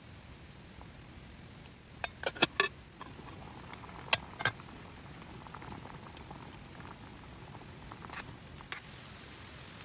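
Sharp clicks and knocks of hard objects: a quick cluster of four about two seconds in, two more a second and a half later, then a few fainter ticks, over a steady soft hiss.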